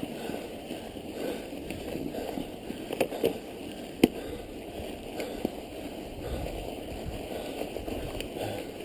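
Mountain bike riding through snow: a steady rushing noise of tyres and drivetrain. A few sharp knocks come about three to four seconds in, the loudest near four seconds, and another follows a little after five.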